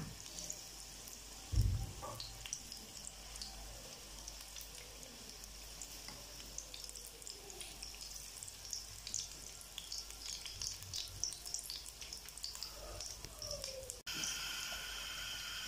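Samosas deep-frying in oil on a low flame: a soft sizzle full of small crackles and pops. There is a single low thump about a second and a half in. Near the end the sound cuts suddenly to a steadier, slightly louder hiss.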